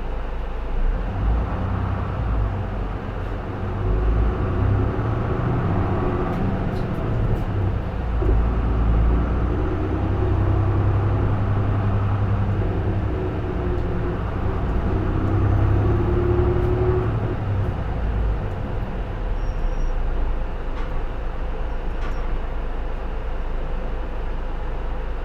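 City bus diesel engine (J-Bus/Isuzu PKG-LV234L2) pulling the bus along, heard from on board: the engine note climbs several times as it accelerates, between about 4 and 17 seconds in, then settles into a steadier drone.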